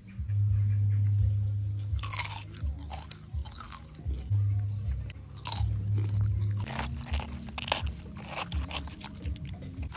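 Crunching of crispy fried pork skin being bitten and chewed close to the microphone: a run of sharp, irregular crunches starting about two seconds in.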